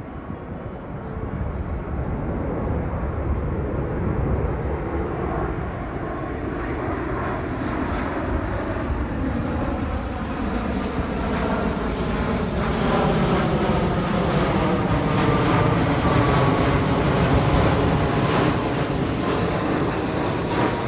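Jet airliner engines running as the plane flies past, the noise swelling louder over the second half, with tones sliding down in pitch as it goes by.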